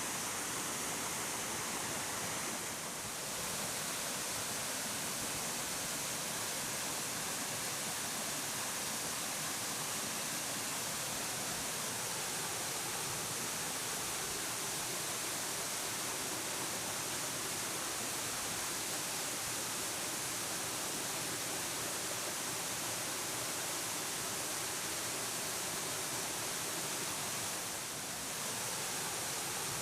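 Steady, even rush of water from a 30 m high waterfall with heavy flow. The level dips slightly for a moment about three seconds in and again near the end.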